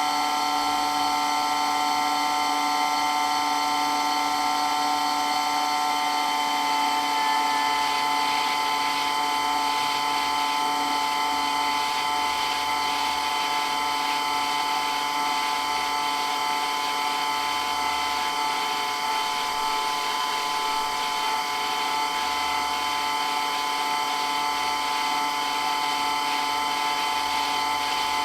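Water pump running steadily, a continuous machine whine made of several steady pitches over a hiss. A few of the higher tones fade about six seconds in.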